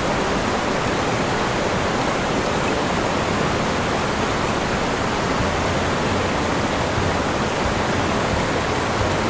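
Fast-flowing floodwater rushing in a steady, even torrent.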